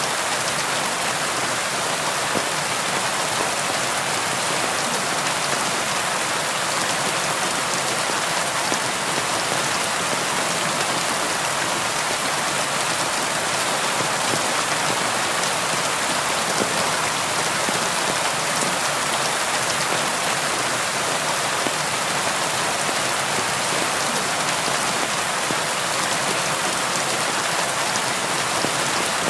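Steady rain falling and pattering, with a constant even hiss and fine scattered drop ticks.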